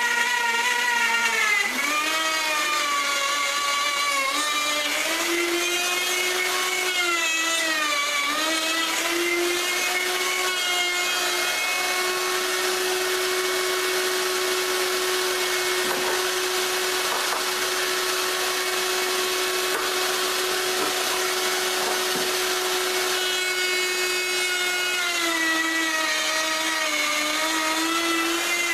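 Router with a 1/4 inch bit running and cutting into maple, its motor whine dipping and wavering in pitch as the bit takes load, holding steady through the middle stretch.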